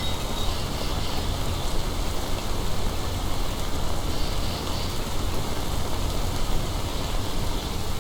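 Steady recorded ambience of even rumbling noise, heavy in the low end, like the inside of a moving vehicle, played back from a relaxing-sounds app.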